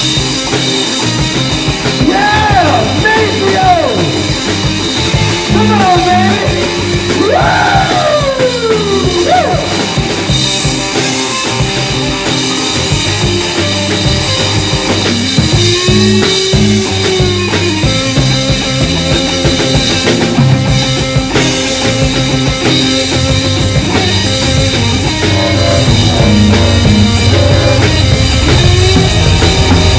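Live rock band playing an instrumental passage: drum kit, bass and electric guitar, with bending, gliding lead-guitar lines in the first part and the low end swelling near the end.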